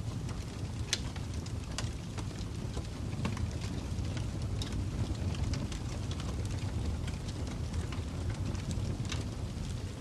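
Fire crackling: a steady low rumble of burning with irregular sharp pops and snaps scattered throughout.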